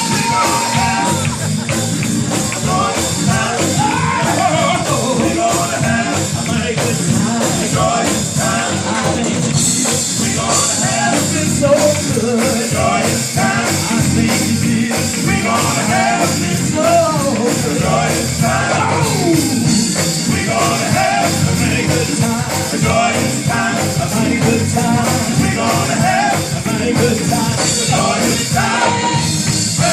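Live gospel church band playing an instrumental section with a steady beat.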